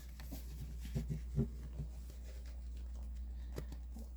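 A few faint soft taps and rustles of fabric and a plastic Q-snap frame being handled, over a steady low hum.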